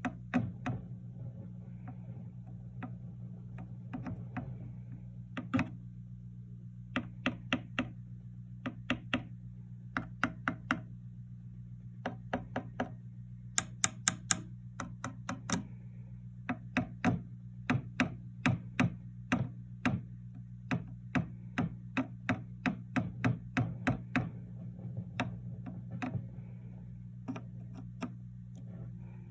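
Chopstick tapping on a 1967 Fender Bandmaster tube amp, in quick runs of light knocks, over the amp's steady low hum. The tapping is a hunt for an intermittent rumbling fault in the amp, which shows itself near the end of this stretch.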